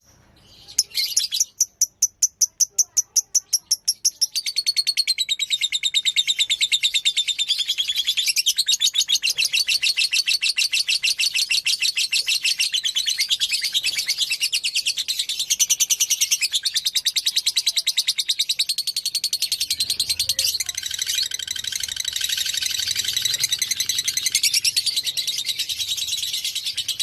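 Lovebird singing a long, unbroken chattering song (ngekek). It opens with a run of separate sharp chirps, about five a second, then goes into a continuous fast high chatter without a break. A lower-pitched layer joins about two-thirds of the way through.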